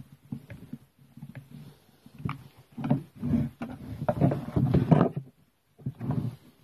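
Irregular knocking and rattling of parts and tools being handled during reassembly of a grass strimmer, busiest in the middle and stopping about five seconds in.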